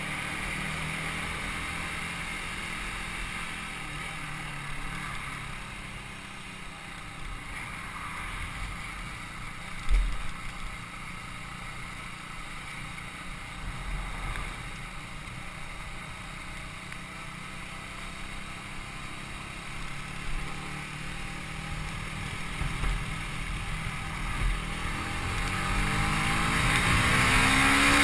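Yamaha YZF-R125's single-cylinder 125cc four-stroke engine running on the move, with wind rushing over the microphone. There is a low thump about ten seconds in, and near the end the engine note climbs and gets louder as the bike accelerates.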